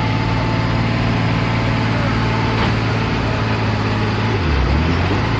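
Farm tractor engine running hard under load while pulling a sled down a tractor-pull track, a steady loud drone. About four and a half seconds in, the engine note drops sharply and then climbs back up.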